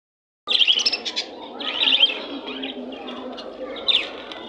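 Small birds chirping, starting about half a second in: three bursts of quick, high chirps over a steady background noise.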